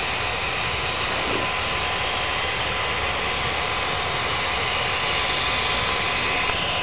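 Steady rushing noise with no distinct events, like wind blowing on the microphone outdoors.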